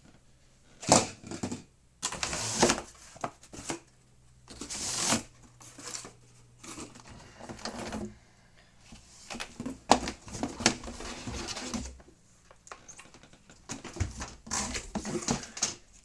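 Handling noise from unpacking vacuum-cleaner parts: irregular plastic clicks and knocks with stretches of rustling packaging. The sharpest knocks come about a second in and about ten seconds in.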